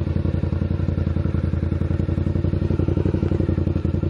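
Motorcycle engine running steadily at low revs through a loud exhaust, an even, rapid pulsing with no revving.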